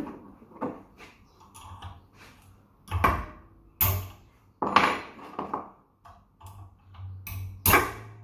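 Metal-on-metal tapping and clinking as a fan motor bearing is knocked off its shaft with a spanner: about four sharp strikes, the loudest near the end, with lighter clinks of tools between.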